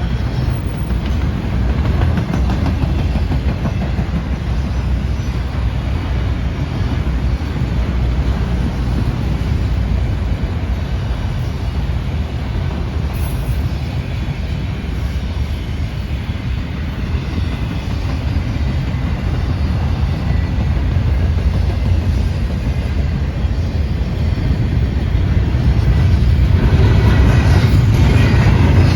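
A train rolling past: a steady low rumble of railcars on the track, growing louder near the end.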